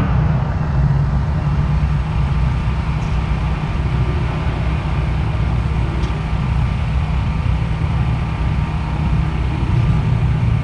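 Car engines idling with a steady low rumble, holding an even pitch with no revving.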